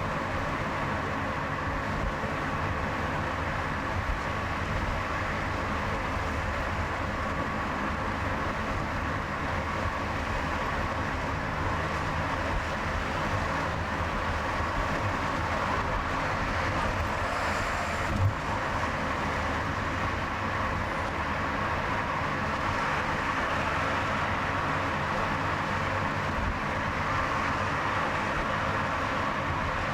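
Car driving on a highway: a steady mix of engine hum and tyre and road noise, with one short knock about two-thirds of the way through.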